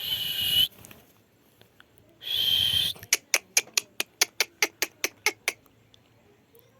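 Pet parrot giving two harsh, half-second screeches, then a rapid run of about a dozen short, sharp notes at roughly five a second.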